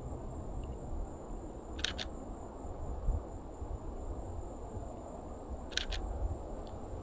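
Canon EOS RP shutter firing twice, each shot a quick double click, about two seconds in and again near six seconds, over a steady low rumble.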